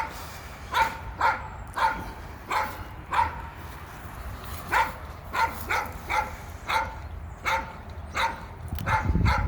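A dog barking repeatedly: short, sharp barks, one or two a second at irregular spacing.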